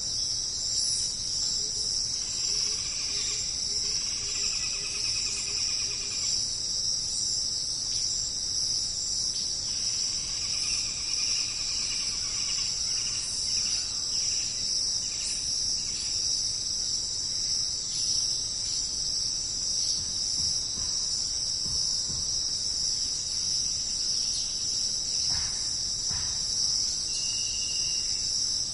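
Jungle insect chorus: a dense, steady high-pitched buzzing, with faint animal calls over it twice, a few seconds in and around the middle.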